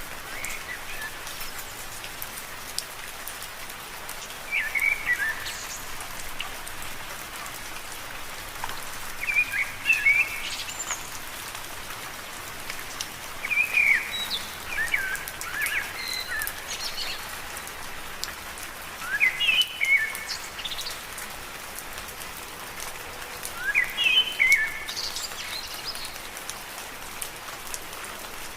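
Steady rain falling on leaves. Over it come short clusters of high chirping calls, roughly every five seconds.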